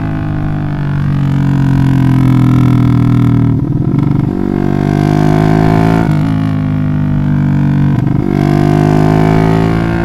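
Bored-up 180cc Yamaha Jupiter MX single-cylinder four-stroke motorcycle running loud through a racing exhaust under way, its note climbing steadily in each gear. Twice, about four and eight seconds in, the drone briefly breaks up as the rider shifts gear, then picks up lower and climbs again.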